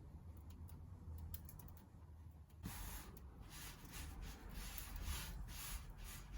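Faint rubbing and scuffing of hands pressing and stretching pizza dough on a semolina-dusted surface, beginning about three seconds in, over a low steady hum.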